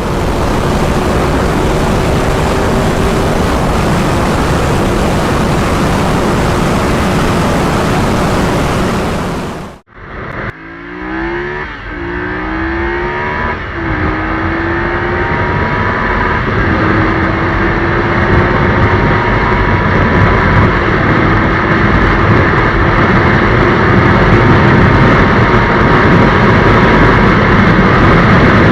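Parallel-twin sport motorcycle at high speed, its engine buried under loud wind rush. After a sudden cut about ten seconds in, it accelerates hard through several quick upshifts, each rise in revs followed by a drop, then pulls steadily higher in a tall gear.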